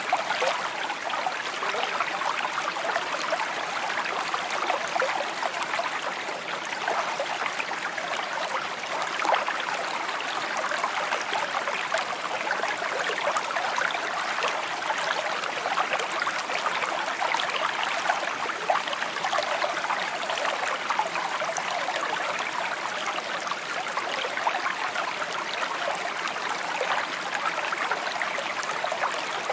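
A shallow stream babbling over stones: steady water noise full of small quick splashes and trickles.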